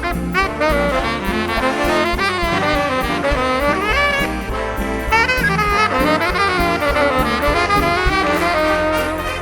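Big band playing swing jazz live: saxophones and brass in moving melodic lines over a steady swinging rhythm section with regular cymbal strokes.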